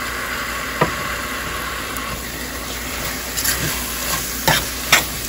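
Chopped tomatoes sizzling in hot oil with fried onions and masala in a stainless steel pressure cooker, a steady hiss. A slotted spoon knocks against the pot once about a second in and several times near the end as the tomatoes are stirred in.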